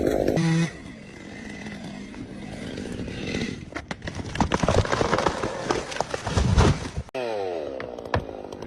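A chainsaw running that cuts off abruptly about half a second in. It is followed by several seconds of irregular crackling and knocking noise, louder in the second half.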